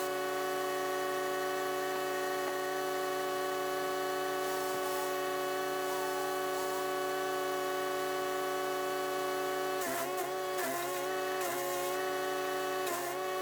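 Chipease D1500E wood chipper's 420cc single-cylinder four-stroke engine running steadily at high speed. From about ten seconds in, its pitch dips several times with short crackling crunches as branches are fed in and the engine loads.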